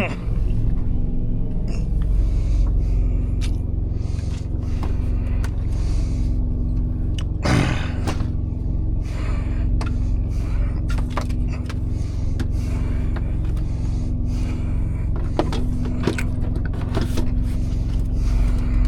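Semi truck's APU, a small diesel auxiliary power unit, running steadily with a low drone and a steady hum, heard from inside the cab. A few short clicks and knocks of things being handled, and a brief louder scrape about halfway through.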